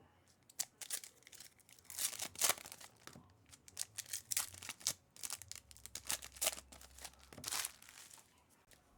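Crinkling and rustling of trading-card pack wrappers and cards being opened and handled, in a string of short, irregular crackles.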